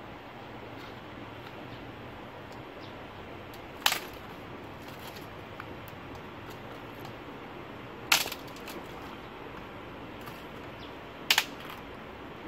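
Three sharp knocks, about four seconds apart, the last one doubled, over a steady background hiss.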